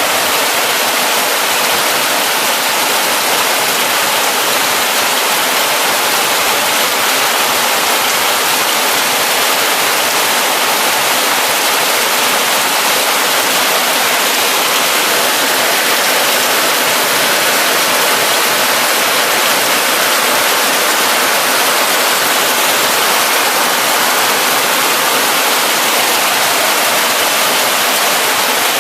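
Heavy rain falling steadily: a dense, even hiss with no thunder or other distinct sounds.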